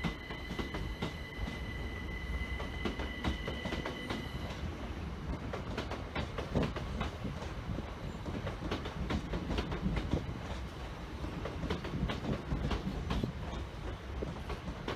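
Train rolling slowly over the rails, its wheels clicking and knocking over rail joints and pointwork under a steady rumble. A high steady whine sounds for the first four seconds or so, then stops.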